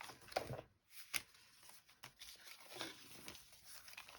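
Paper being handled: intermittent rustling and crinkling with a few sharp clicks.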